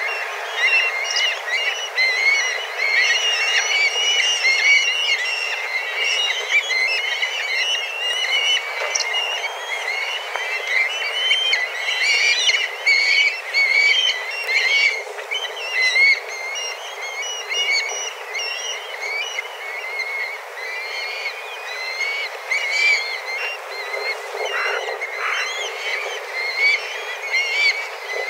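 A flock of dozens of black kites calling at once: many overlapping high whistling calls that rise and fall without a break, the din of a crowd of kites circling in search of food.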